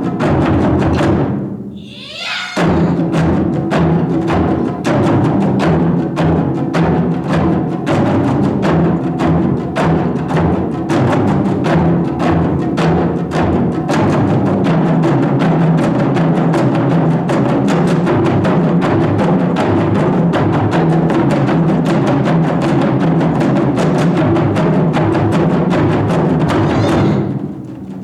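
Ensemble of Japanese taiko drums playing a fast, dense run of strokes, with a brief break about two seconds in and another near the end.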